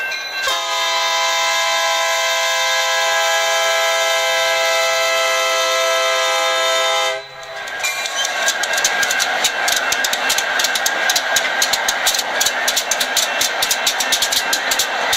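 Diesel locomotive horn sounding one long, steady, multi-note chord for about seven seconds. It cuts off sharply, and the rumble and rapid clatter of train wheels running over rail joints follow.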